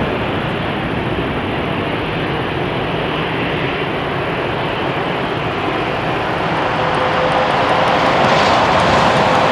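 Airbus A319 jet engines running as a steady noise. It grows louder over the last few seconds, with a steady whine coming in.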